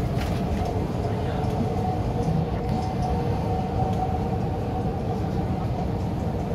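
MTR Q-Train metro car running between stations, heard from inside: a steady low rumble of wheels on track with a faint, even tone from the drive held over it.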